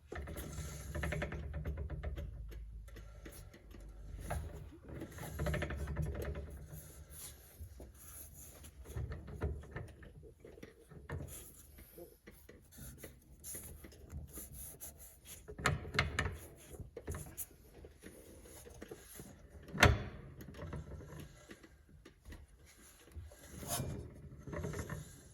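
Rear axle and wheel hub of a jacked-up 2007 Saturn VUE being turned by hand: a low rumble for the first several seconds, then scattered clicks and knocks, with one sharp knock about twenty seconds in. The hub is being checked for the source of a left rear humming noise.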